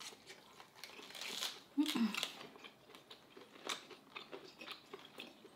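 Close-up chewing and crunching of crisp romaine lettuce leaves wrapped around steak: a string of short, sharp crunching clicks, with a brief hummed "mm" about two seconds in.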